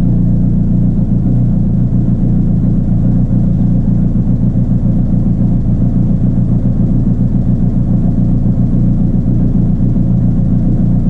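Honda CBR1000RR inline-four engine idling steadily at about 1500 RPM with a knock, a 'boom', coming through it. The owner counts the knock at about eight times a second and suspects the top end rather than the bottom end.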